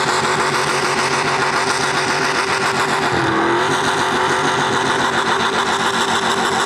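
Mini rod pulling tractor's small-block Chevy V8 running hard at high revs under load during a pull, with a brief dip in engine speed about three seconds in.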